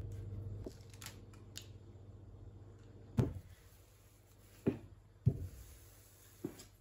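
A low steady hum that cuts off about half a second in, then four sharp knocks spread over the next few seconds, like objects being set down or handled.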